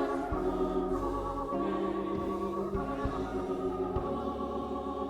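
Gospel church music: held organ chords over low bass notes that change every second or so.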